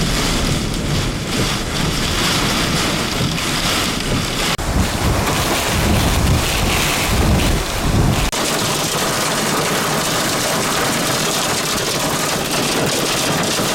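Heavy wind-driven rain in a severe thunderstorm, with strong wind buffeting the microphone as a low rumble that drops away abruptly about 8 seconds in, leaving the steady hiss of the downpour.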